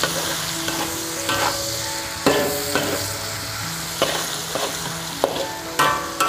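Vegetables stir-frying in hot oil in a large wok: a steady sizzle, with a metal spatula repeatedly scraping and knocking against the pan as they are tossed.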